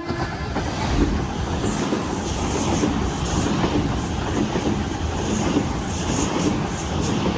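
Train running past on the rails, a loud steady rumble with the wheels clattering over the rail joints.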